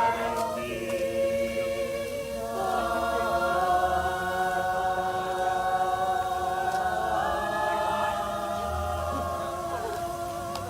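Group of voices singing in harmony, holding a long sustained chord that shifts only slowly.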